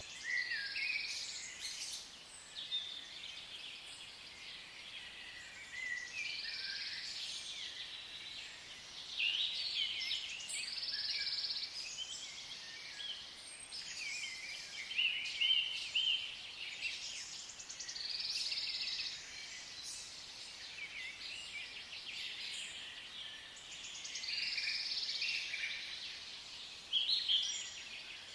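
Many small birds chirping and chattering together in a dense, overlapping chorus of high calls that swells and fades every few seconds.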